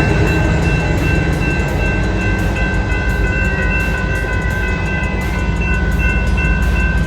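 CapMetro Rail diesel commuter train running with a steady low rumble and a steady high-pitched whine over it.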